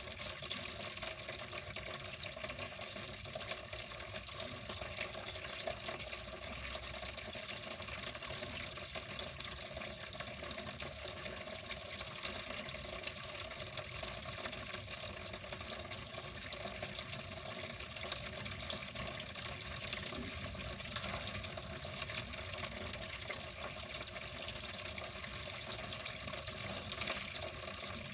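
Water flowing steadily, an even splashing rush that does not change.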